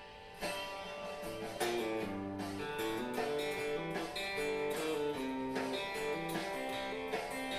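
Guitar playing a slow single-note country lick: a B-flat pulled off to A, landing on G, with each plucked note ringing on.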